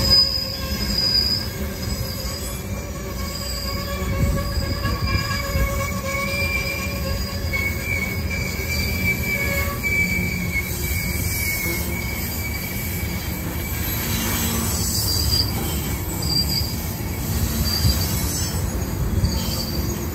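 Freight train rolling past with a steady rumble, its steel wheels squealing against the rails in high, wavering tones that come and go.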